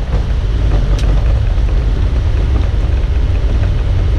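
Boeing 777 cockpit noise during the landing rollout: a steady low rumble from the aircraft decelerating on the runway, with a single sharp click about a second in.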